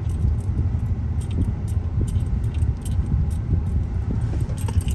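Low, steady rumble of a car driving, heard from inside the cabin, with scattered light clicks and jingles of small rattles.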